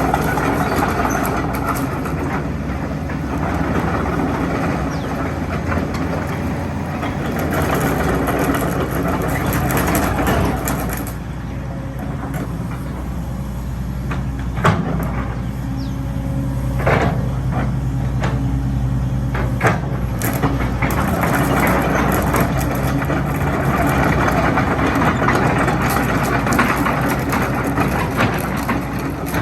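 Hitachi ZX120-3 hydraulic excavator's diesel engine running steadily, heavier and noisier at the start and near the end, as under hydraulic load, and easing in the middle. A few sharp metallic knocks sound during the quieter stretch.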